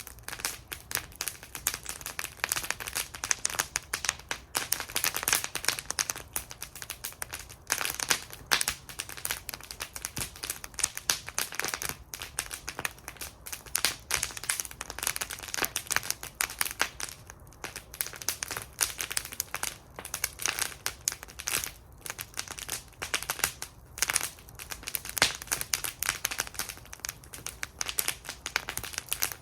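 Wood fire burning in a metal fire bowl, crackling and popping constantly with dense, irregular snaps.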